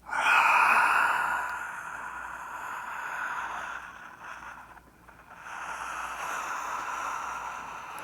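A man yawning deeply with his throat held open: two long, breathy yawns of about four seconds each, the first loudest at its start.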